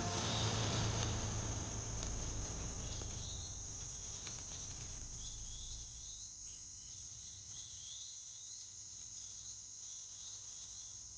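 Steady high-pitched chorus of crickets in the grassland, with short repeated chirps over it from a few seconds in. A low rumble underneath fades away over the first few seconds.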